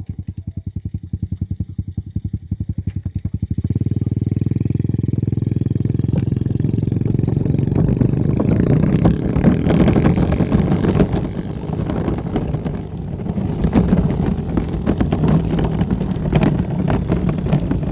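Dirt bike engine idling with an even pulse, then opened up about three and a half seconds in and running under load as the bike pulls away towing a wagon.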